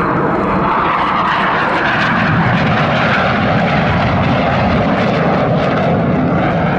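Jet noise from BAE Hawk T1 trainers' Adour turbofan engines as the aircraft fly past, a loud, steady rushing rumble.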